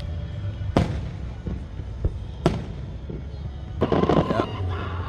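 Aerial fireworks going off: two sharp bangs about a second and a half apart, then a quick burst of crackling near the end.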